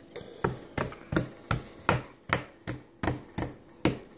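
Rapid, even tapping or knocking, about three sharp knocks a second.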